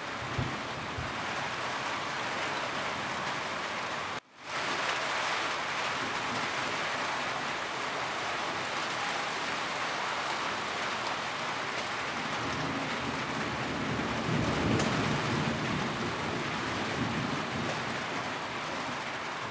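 Steady heavy rain falling on a roof, an even hiss. It cuts out for a moment about four seconds in and fades back, and a low rumble swells and fades past the middle.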